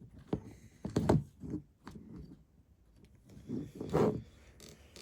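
LEGO plastic bricks being handled and pressed together: a few short clicks and taps around the first two seconds, then a longer rubbing, rustling stretch about three to four seconds in.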